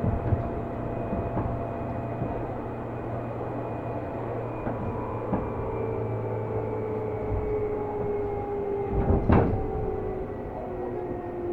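Running sound inside a Seibu New 2000 series electric commuter train: a steady rumble with motor and gear tones falling slowly in pitch as the train slows. A sharp knock comes about nine seconds in.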